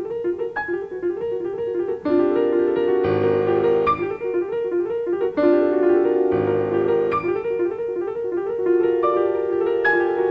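Solo piano playing classical music: a fast, repeating figure in the middle register, with fuller chords and deep bass notes joining about two seconds in and again about five seconds in.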